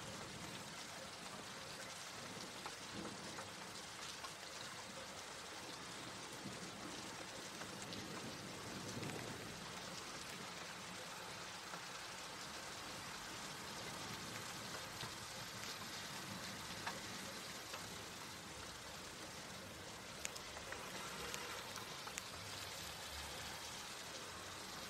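Steady rain falling on leafy garden plants and grass: an even hiss with scattered individual drop taps.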